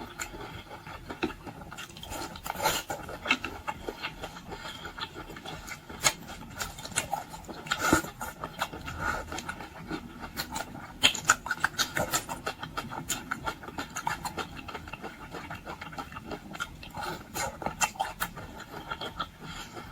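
Close-miked eating sounds: irregular wet clicks, crackles and rubbing of someone chewing and handling boiled seafood, with a few louder snaps about 6, 8 and 11 seconds in.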